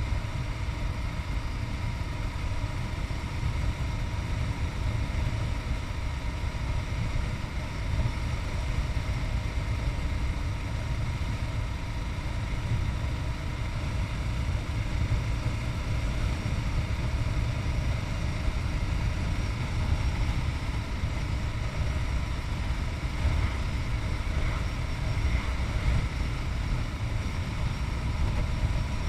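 Yamaha MT-03's 660cc single-cylinder engine running steadily under way, with a heavy low rumble of wind on the chest-mounted camera's microphone.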